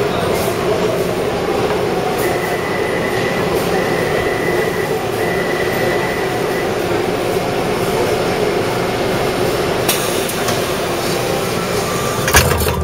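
Taipei Metro C301 train running, a steady rumble of wheels and motors with a faint high whine that comes and goes for a few seconds. A sharp knock near the end, after which the noise drops.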